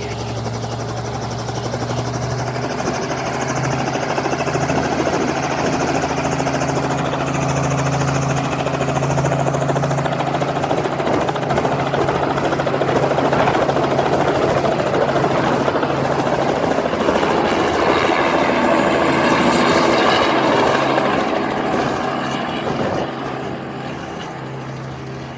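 Helicopter rotor and engine running steadily, with a low drone under a heavy rushing noise. It grows louder toward the last third, then fades over the final few seconds.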